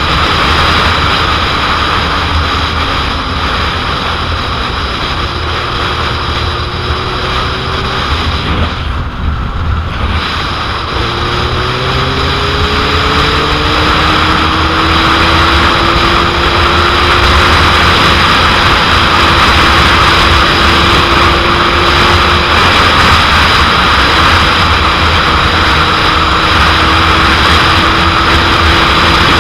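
Heavy wind noise on the microphone over the 2001 Suzuki GSX-R750's inline-four engine, whose pitch falls and rises with throttle and gear changes. About nine seconds in the wind briefly eases, then the engine note climbs steadily as the bike accelerates.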